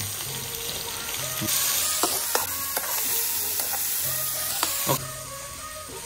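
Insect larvae, onions and chillies sizzling in hot oil in a metal wok, stirred with a metal spoon that clinks sharply against the pan several times. The sizzle swells about a second and a half in and eases near the end.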